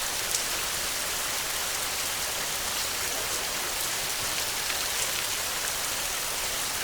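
Heavy rain falling steadily: a dense, even hiss of rain on surfaces, with scattered sharper drop hits.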